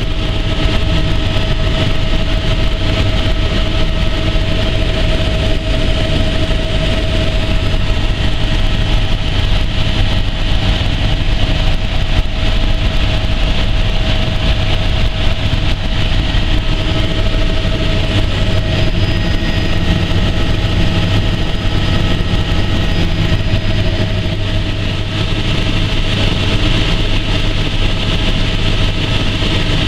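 Helicopter in flight: a steady low drone from the rotor and engine with a constant mid-pitched whine over a broad rushing hiss.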